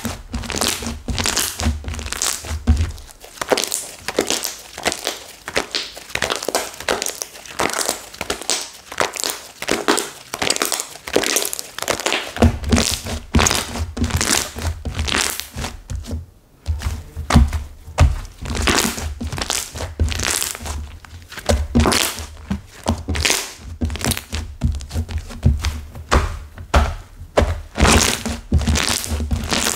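Slime studded with hardened clay bits being squeezed and kneaded by hand, giving a continuous irregular crackling and crunching as the dried clay cracks, with dull thunks against the surface. The thunks come and go.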